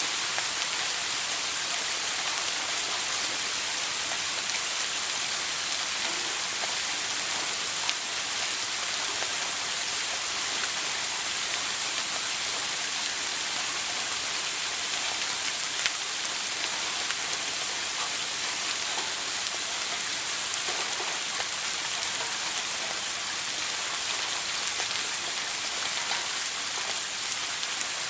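Shower running: a steady hiss of water spraying and pattering onto a hard surface, with a few sharper drops standing out.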